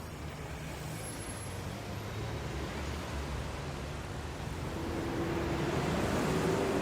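Street traffic rumbling, with a vehicle passing closer and louder about five to seven seconds in.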